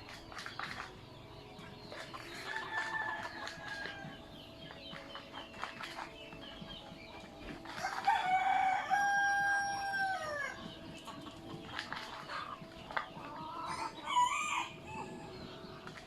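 Native chickens clucking, with a rooster crowing loudly about eight seconds in, a long held note that drops off at the end. A fainter crow comes a few seconds earlier.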